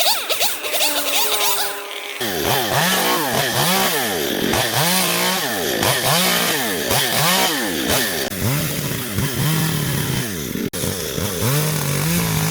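Small engine of a garden power tool revving up and down again and again, about once a second, as it works through growth. Before that, for about the first two seconds, a different higher-pitched sound glides up and down.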